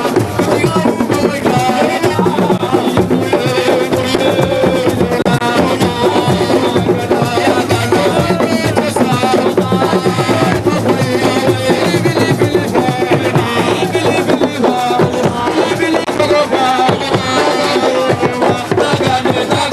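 Drum music with many quick hand-drum strokes and voices singing over it, loud and unbroken throughout.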